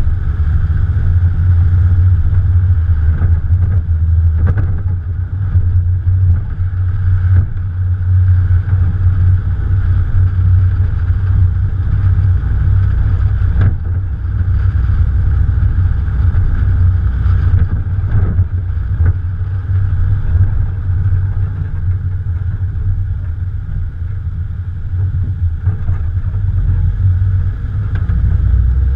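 Morgan Plus 4's Ford 2.0-litre engine running while the car drives along, heard with a steady deep rumble and wind buffeting the bonnet-mounted camera's microphone. A few brief knocks come through here and there.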